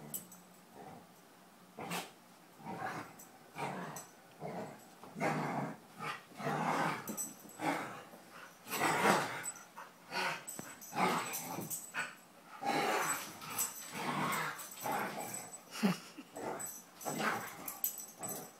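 Two dogs playing together, with play growls coming in short, irregular bursts.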